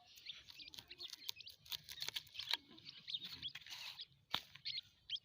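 Day-old partridge chicks cheeping, many short high-pitched peeps in quick succession, with scattered light taps.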